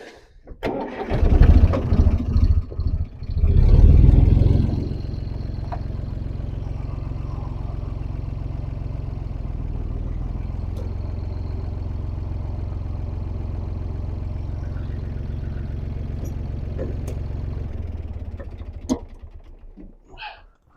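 Diesel tractor engine revving unevenly for the first few seconds while the tractor is moved, then running steadily at raised speed. Near the end it winds down and dies away, with a single click as it fades.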